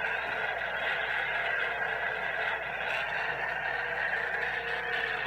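Truck engine revved and held at high revs near redline, a steady unbroken drone.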